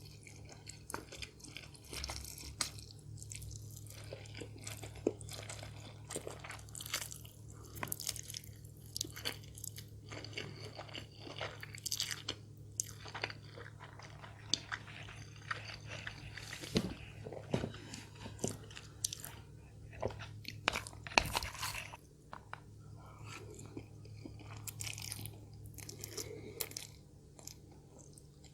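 Close-miked eating: a person biting and chewing crispy fried food, with many short crunches throughout.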